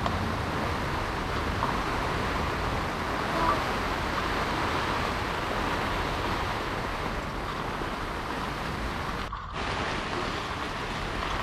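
Heavy rain falling as a steady hiss, cutting out for a split second about nine seconds in.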